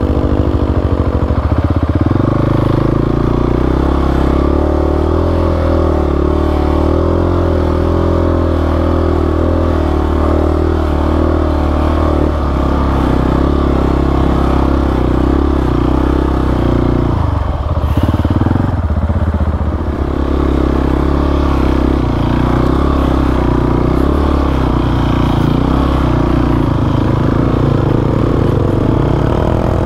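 Single-cylinder dual-sport motorcycle engine running at steady throttle while riding off, its note easing briefly about two-thirds of the way through before picking up again.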